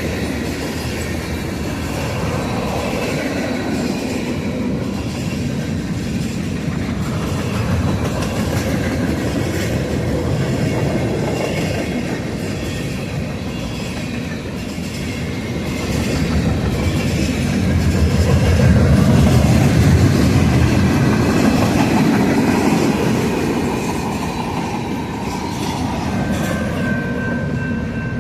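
Freight train cars rolling past, a steady rumble of wheels on rail with clickety-clack over the joints, swelling somewhat past the middle. A thin steady squeal comes in near the end.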